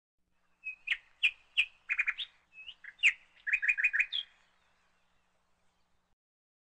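A bird chirping: a string of short, sharp chirps over about four seconds, including quick runs of several notes in a row, then it stops.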